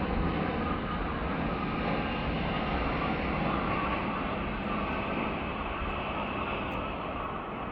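Steady rumble of distant engine noise, slowly fading.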